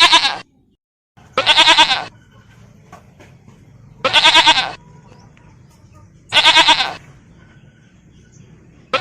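A goat bleating over and over, a loud wavering call under a second long that comes about every two to three seconds, three full calls with another cut off at the start and one more beginning at the end.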